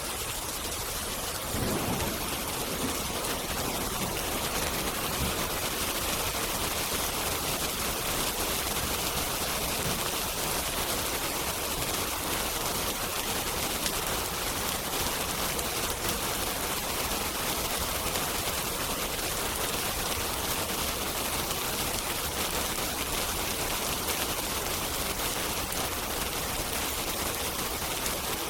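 Steady rain hissing, with the small scattered crackles of a wood fire. A low rumble of distant thunder swells about two seconds in.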